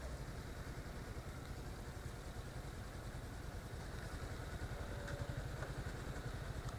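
Kawasaki Versys-X 300's parallel-twin engine idling steadily and quietly.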